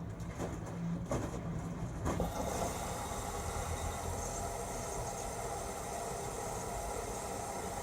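LG Tromm WD-CR101C drum washing machine running its quick-wash cycle. A low hum is broken by a few knocks over the first two seconds, then a steady rushing noise takes over.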